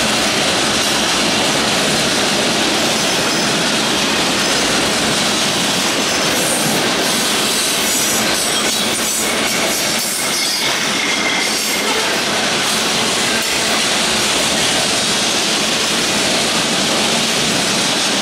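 Freight train cars rolling past at close range over a railway bridge: a steady loud rumble and rattle of steel wheels on the rails. A faint thin wheel squeal comes in around the middle.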